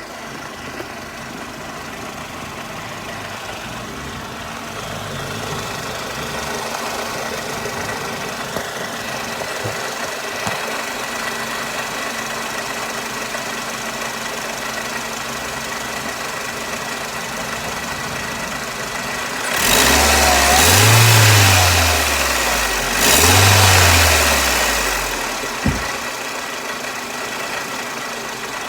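Mercedes SLK R170 engine idling steadily, then revved twice about twenty seconds in, each rev rising and dropping back to idle, followed by a single sharp click. It is being run up to listen for a suspected exhaust leak, which the owner ends up doubting is there.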